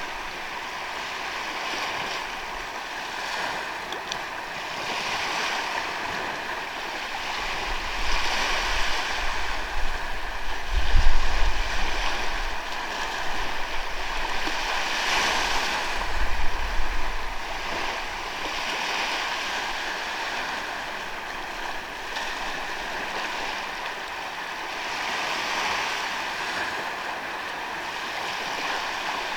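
Sea waves breaking and washing up on a sandy beach, surging and fading every few seconds, with the loudest surges near the middle.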